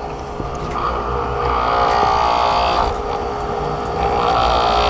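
A 4420G pressure washer with a small induction motor running just after switch-on, its pump drawing water from a tank to purge air from the system. It makes a steady motor hum and pump noise that eases briefly about three seconds in, then picks up again.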